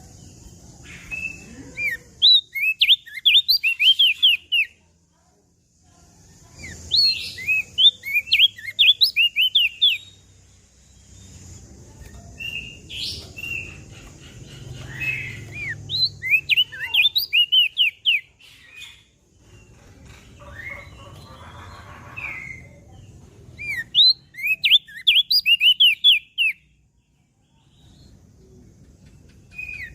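Opior jambul singing: four bursts of rapid, high chirping notes, each a few seconds long, with short gaps between them. A faint low rumble and a steady high hiss run underneath.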